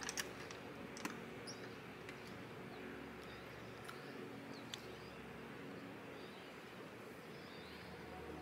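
Faint scattered bird chirps over a quiet outdoor background, with a few soft clicks near the start and about a second in.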